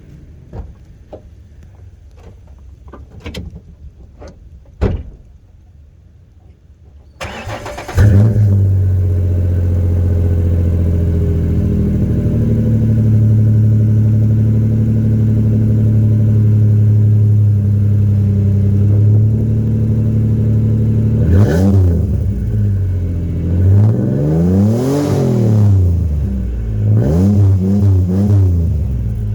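A few sharp clicks, then a Ford Ranger's 4.0 V6 cranks and starts about seven seconds in and idles steadily through a two-year-old Thrush 17658 muffler. Later it is revved several times: one long rise and fall, then a run of quick blips.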